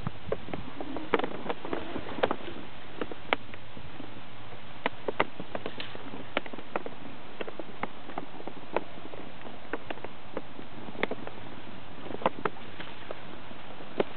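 Water around a kayak: irregular small splashes, drips and light knocks over a steady hiss of moving water.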